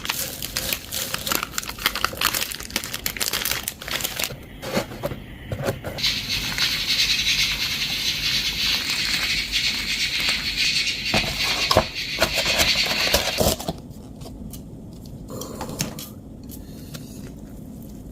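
Plastic instant-ramen packaging crinkling and tearing, with many small crackles and clicks. About six seconds in, a steady hiss begins and runs for about seven seconds before stopping suddenly, leaving only faint clicks.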